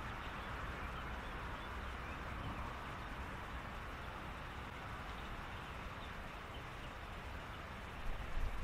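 Reed-bed ambience at dusk: a faint, steady chorus of animal and bird calls over a low rumble, with a brief low rumble of wind on the microphone near the end.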